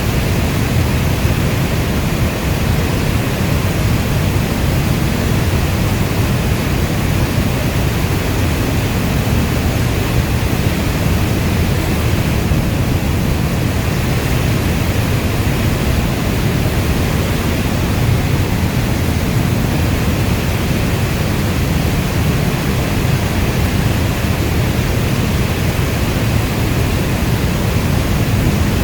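Heavy rainstorm falling steadily: a dense, deep, even rushing with no separate drops, thunder or changes.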